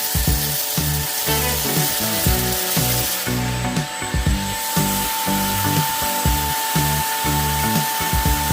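Levoit LVAC300 cordless stick vacuum running with a steady hiss and motor whine, a steady higher tone setting in about halfway through, over background music with a regular beat.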